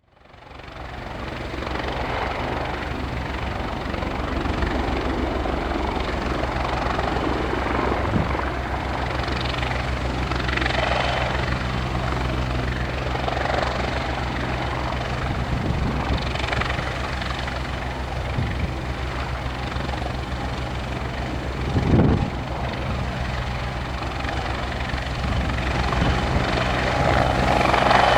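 Helicopter running close by: a steady turbine whine and rapid rotor-blade beat, fading in at the start. Strong wind buffets the microphone, with one loud gusty thump about three quarters of the way through.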